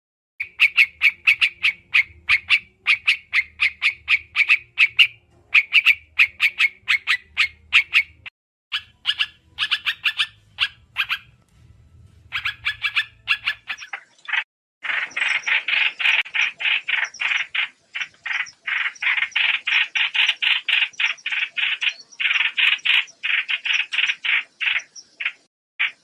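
Trao trảo bird lure call: rapid, evenly repeated chattering notes, roughly ten a second, in runs broken by short pauses. About halfway through, a louder, denser run of notes begins.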